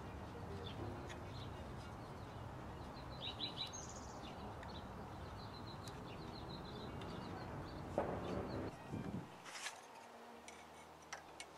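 Steady outdoor background noise with a short run of bird chirps about three seconds in. Near the end there are two sharp clicks, and then the background noise drops away suddenly.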